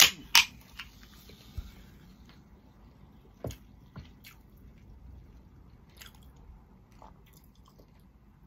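Two sharp clicks at the start, then a person chewing food with faint wet mouth clicks and pops scattered through.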